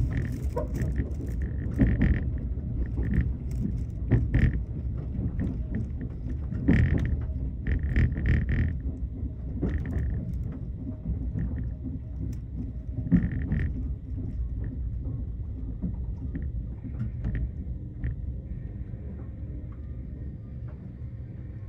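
Inside a 381 series tilting limited-express carriage while running: a steady low rumble of wheels on rail, broken by repeated short high-pitched squeals and scattered clicks, getting quieter in the last few seconds.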